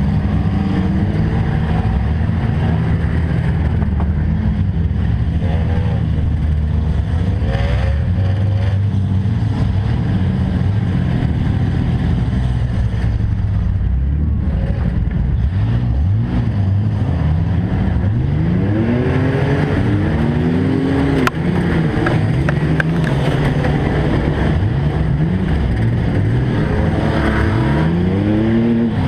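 Racing truck engines running hard throughout. In the second half the engine pitch repeatedly rises and falls as the trucks rev and pass, with some overlapping.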